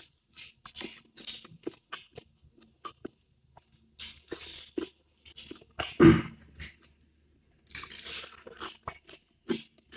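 Close-miked eating: a person chewing and biting crunchy food in short, irregular crunches, with the loudest crunch about six seconds in.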